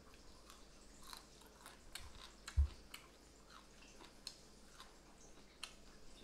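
A person chewing battered fried fish close to the microphone, with scattered small crunches and mouth clicks. A single low thump comes about two and a half seconds in.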